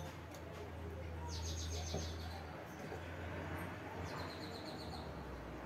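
A bird's rapid high trill, heard twice, each run lasting about a second, over a faint low steady hum.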